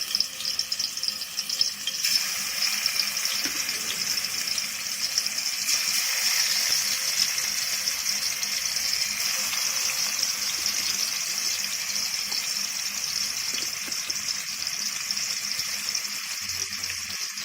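Marinated fish pieces sizzling steadily in a little hot oil in a kadai as they are laid in one by one, with a faint crackle now and then.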